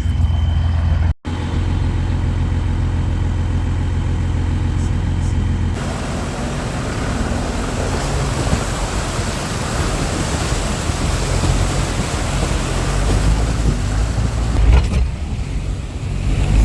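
Truck driving: a steady low engine drone that changes at about six seconds into a rougher rushing noise of the moving vehicle, with a few louder bumps near the end.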